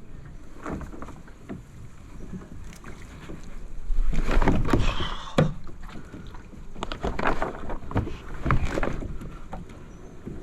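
Kayak paddle strokes: the blades dip and splash in calm water about once a second or so, with wind rumble on the microphone for a second or two around the middle and a sharp knock a little after it.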